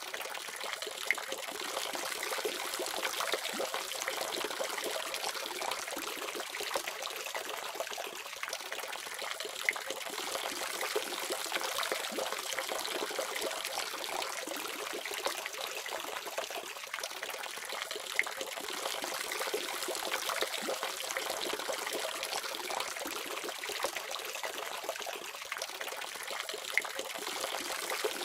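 Water running steadily from a faucet, an even splashing hiss with small splatters now and then.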